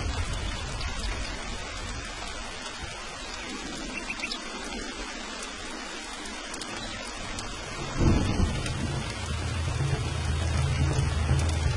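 Steady heavy rain with rolling thunder. The low rumble dies away mid-way, then a sudden thunderclap about eight seconds in sets off rumbling that builds again.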